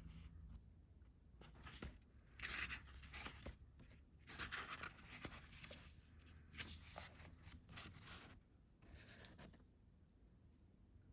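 Manga paperbacks being handled: four short bursts of soft paper rustling, quiet between them.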